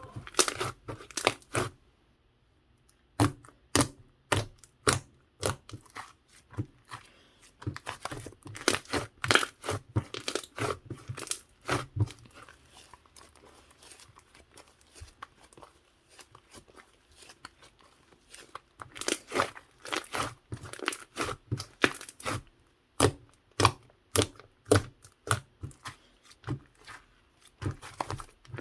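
Slime being squeezed, folded and stretched by hand, giving sharp clicks and pops in irregular clusters, with a short pause about two seconds in and a quieter stretch around the middle.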